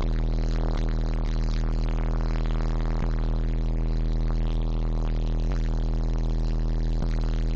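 Four 15-inch Digital Designs 500-series subwoofers in a truck's sub box playing loud bass, holding one deep, steady bass note with a few faint ticks.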